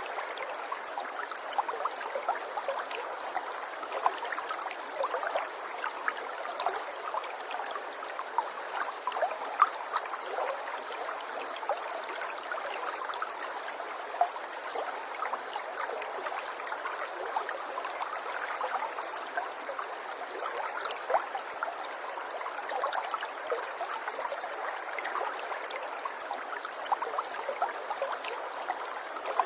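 Running water, like a small stream over rocks: a steady rush dotted with many small splashes and drips.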